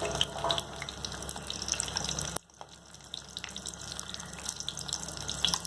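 Lumpiang Shanghai spring rolls frying in hot oil: a steady crackling sizzle with many small pops. It drops abruptly about two and a half seconds in and carries on quieter.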